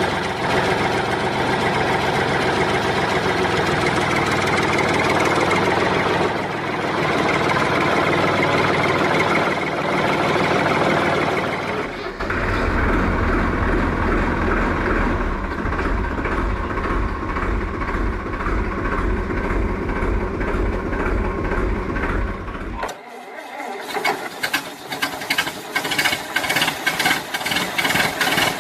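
Vehicle engine sounds, changing about twelve seconds in to a deeper steady hum; after a brief dip a few seconds before the end they turn into a fast, even rattling knock.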